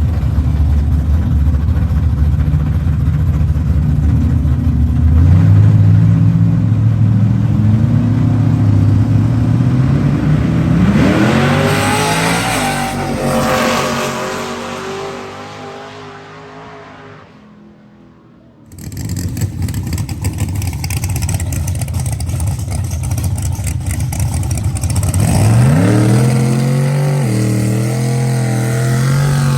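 Drag racing car engines running at the line, then revving up and accelerating hard away down the track, the sound rising in pitch and fading into the distance. After an abrupt cut, another engine runs and revs up again near the end.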